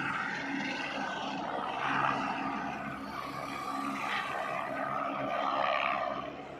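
Helicopter running steadily: a continuous engine and rotor hum over a rushing noise.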